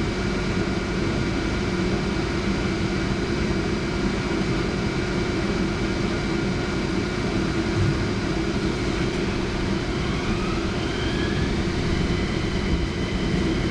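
Steady hum and rumble inside a Centram low-floor tram. About nine seconds in, the traction motor whine starts rising in pitch as the tram gathers speed.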